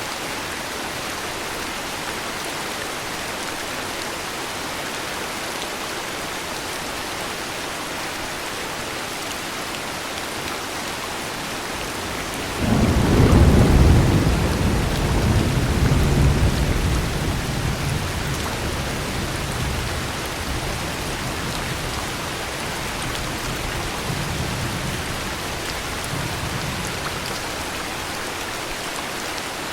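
Heavy rain falling steadily, with a thunderclap about twelve seconds in that rolls on as a deep rumble and dies away over several seconds.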